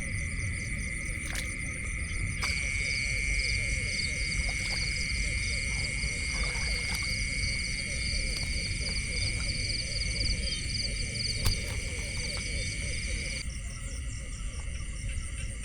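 A chorus of insects trilling steadily at a high pitch over a constant low rumble. A louder trill joins about two seconds in and drops away near the end, with a single sharp click about eleven and a half seconds in.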